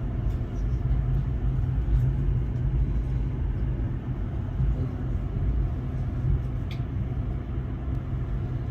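Steady low rumble of the Alaska Railroad passenger train on the Hurricane Gulch trestle, with a faint click about seven seconds in.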